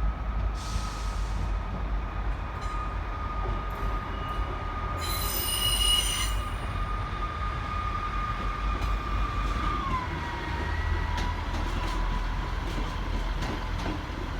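High Speed Train with Class 43 power cars pulling away, a low rumble under a steady wheel squeal that drops in pitch about ten seconds in. A brief, shriller squeal cuts in about five seconds in.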